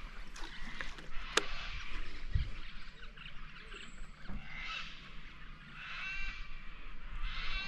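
Bird calls: three short, pitched calls, the first a little before the middle and two more about a second apart near the end. There is a single sharp click about a second and a half in.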